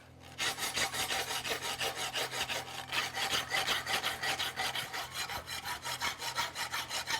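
A hand sanding block being stroked rapidly back and forth over the edge of a steel horseshoe, several gritty strokes a second, starting a moment in. This is the finishing step that cleans up the top line and edges of the shoe.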